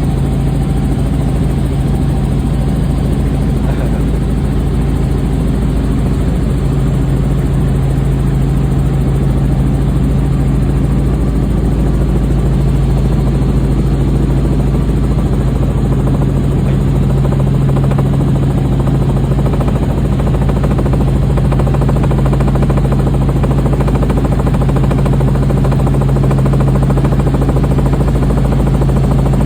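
Helicopter turbine and rotor noise heard from aboard during a ride: a loud, steady drone with a strong low hum.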